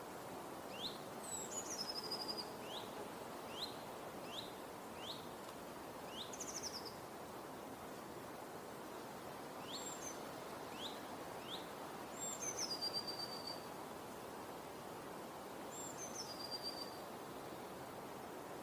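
Outdoor nature ambience: several birds calling over a steady background hiss. There are repeated short rising chirps, and a few longer high calls that drop in pitch and end in a short trill.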